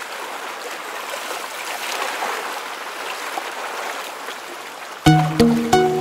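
Steady rushing of sea water, like waves washing past a sailing boat. About five seconds in, music with a regular beat cuts in over it.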